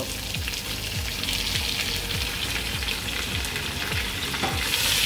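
Raw prawns sizzling as they go into hot oil with lightly browned chopped onions, a steady frying hiss that grows louder near the end.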